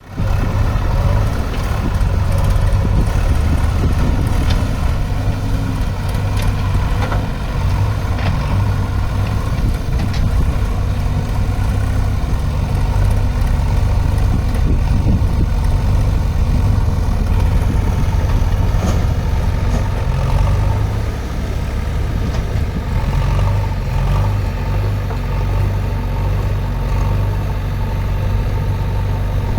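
Large diesel engine of earthmoving equipment running steadily under light load, with occasional clicks and knocks.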